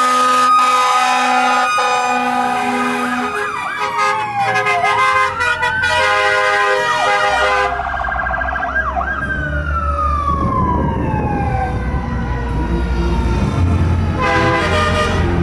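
Fire truck sirens overlapping in rising and falling wails, with air horns sounding in the first few seconds. Midway, one siren winds down in a long falling tone over a low truck-engine rumble.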